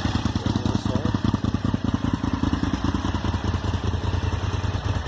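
Honda VTR1000 Firestorm's V-twin engine idling steadily through a home-made 2-into-1 exhaust ending in a Remus race can, a fast, even beat of exhaust pulses.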